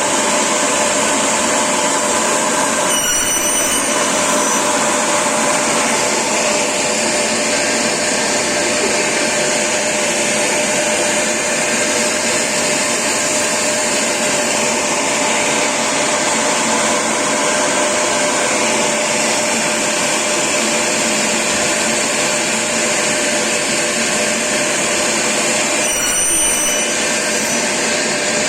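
Cleanvac AS 550 three-phase industrial vacuum cleaner running steadily: a constant rush of air with a steady hum in it. The sound is briefly disturbed twice, about three seconds in and near the end.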